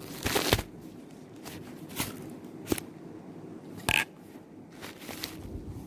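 Plastic packaging crinkling as it is opened, with a rustling burst about half a second in, followed by a few sharp clicks and taps of the plastic vacuum crevice tool being handled.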